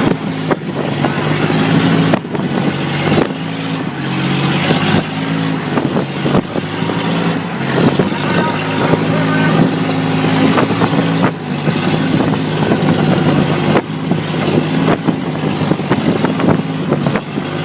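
Boat engine running steadily, its pitch shifting a few times, over wind and water noise.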